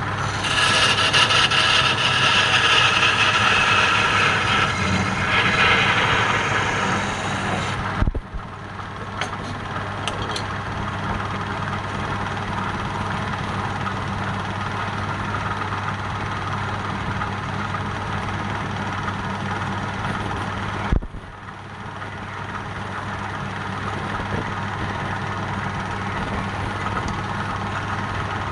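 Woodturning lathe running with a steady motor hum, and a tool cutting or sanding the spinning wood for about the first eight seconds, loud and hissing. Sharp clicks come at about eight and twenty-one seconds in.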